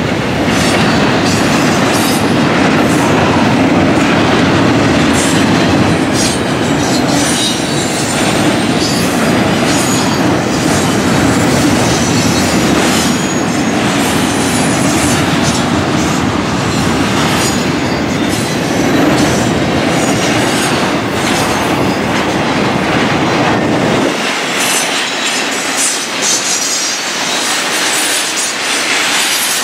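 Double-stack intermodal freight train's container well cars rolling past at close range: a steady rumble of wheels on rail with repeated clickety-clack as the trucks pass over rail joints. The deep rumble drops away suddenly near the end while the wheel noise goes on.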